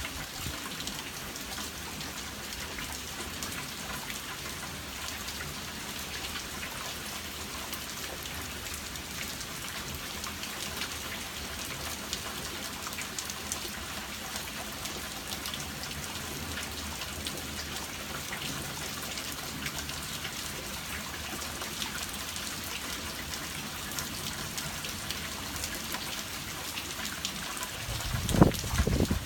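Steady rain falling, with many individual drops ticking on surfaces. Near the end comes a brief, louder low rumble.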